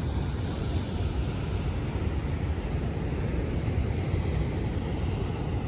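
Wind buffeting the microphone over the steady wash of ocean surf breaking on the shore, a low, continuous rumble with no distinct events.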